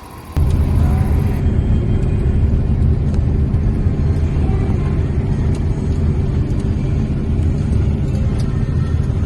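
Heavy harvest machinery running close by: a loud, steady low engine rumble that starts abruptly about half a second in.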